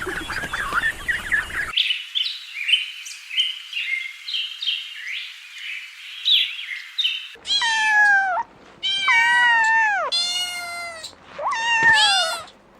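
A domestic cat meowing about four times in the second half, each meow sliding down in pitch. Before that comes a run of quick, high chirps, and at the very start the tail of an earlier animal call.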